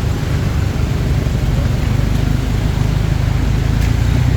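Steady city road traffic: a continuous low rumble of passing cars and engines with a haze of tyre noise.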